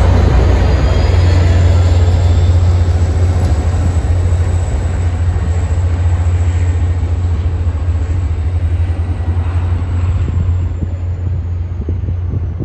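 MBTA commuter train's diesel locomotive passing close by, a steady low engine drone over the rumble of the wheels on the rails, slowly fading as the train moves away.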